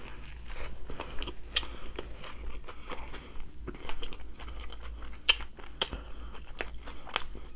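A person chewing and crunching food close to the microphone: a steady run of small crunches and sharp mouth clicks.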